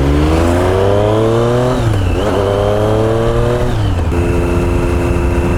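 Triumph Street Triple's three-cylinder engine accelerating through the gears. The revs climb, dip at a gear change about two seconds in, climb again, and after a second shift near four seconds it settles to a steady cruise.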